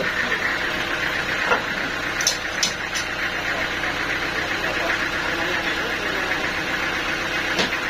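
Sawmill machinery running steadily with a continuous mechanical drone, broken by a few sharp clicks around two to three seconds in and once more near the end.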